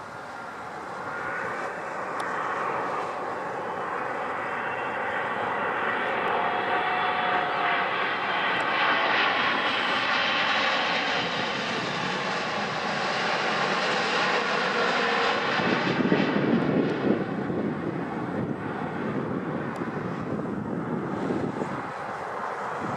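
Boeing 777-200ER jet engines on a landing pass, a rushing roar that grows louder and peaks mid-way. Whining engine tones slide down in pitch as it goes by, and a deeper rumble takes over in the last third.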